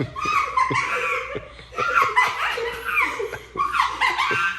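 High-pitched laughing and giggling in repeated bouts.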